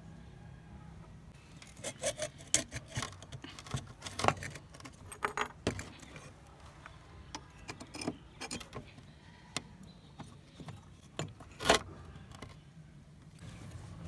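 Small hard metal parts clinking and rattling irregularly as they are handled, with one louder clink near the end.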